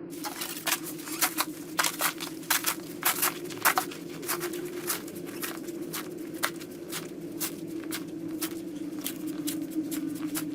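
Snow shovel working through cold snow: an irregular run of sharp scraping crunches, thickest in the first few seconds and thinning out after, over a steady low hum.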